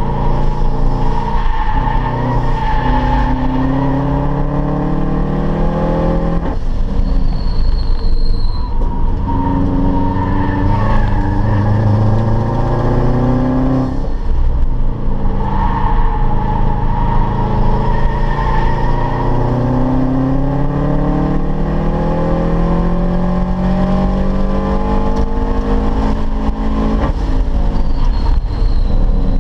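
Car engine heard from inside the cabin under hard acceleration, its revs climbing steadily through the gears and dropping sharply at two upshifts. A brief high squeal sounds twice.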